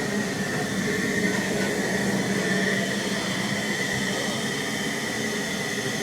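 Ffestiniog Railway narrow-gauge train running along the line, heard from on board: a steady rumble of wheels on rail with a steady high whine over it.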